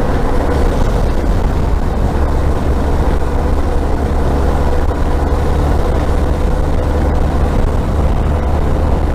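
Motorcycle engine running at a steady cruising speed, with a heavy low rush of riding wind over it.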